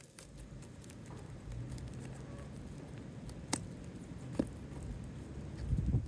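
Asphalt roof shingle being handled and worked into place: rustling and scraping, with two sharp clicks about three and a half and four and a half seconds in and a louder low rumble near the end.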